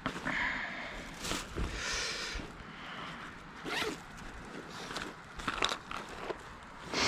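Gear being handled: rasping, zip-like pulls and rustling, broken by a few sharp clicks and knocks.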